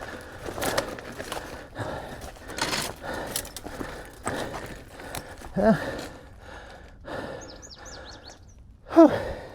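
E-mountain bike rattling and knocking over rough, rutted trail, with the rider breathing hard from the climb. There are two short strained gasps, one about halfway through and a louder one near the end.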